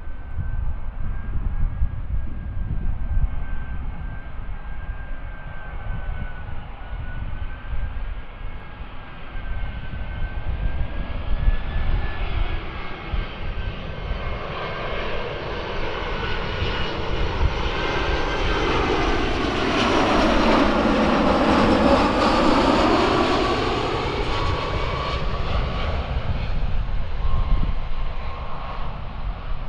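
Jet airliner passing close by: a steady engine whine with rushing noise that builds to its loudest about 20 to 23 seconds in, with a sweeping, phasing sound as it goes by, then fades.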